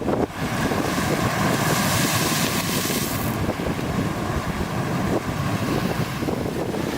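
Strong gusting wind in the wake of a passing typhoon, buffeting the microphone with a heavy low rumble, over rough lake waves. A stronger gust brings more hiss from about one and a half to three seconds in.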